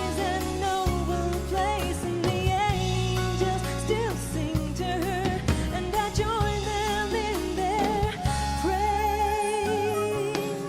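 Live band music from a slow pop song: held bass notes under a wavering melody line, with no words sung. The bass drops out near the end.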